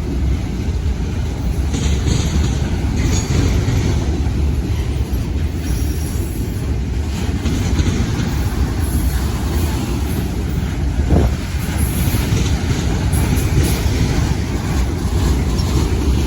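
Railroad cars rolling past on the rails: a steady, heavy rumble with faint high wheel squeaks now and then.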